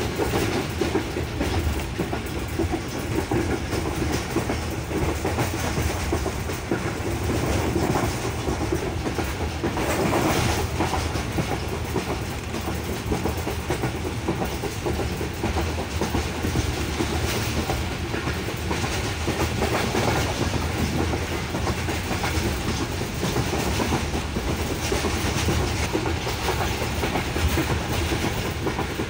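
Railway carriage of a passenger train running at speed: steady noise of the wheels on the track, heard from the open window, swelling briefly about ten seconds in.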